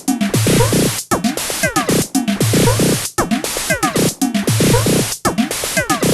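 Korg Volca Drum drum machine playing a looping electronic beat: low booming kicks, pitch-sweeping synth-drum hits and a hissy hi-hat-like noise. The pattern repeats about once a second.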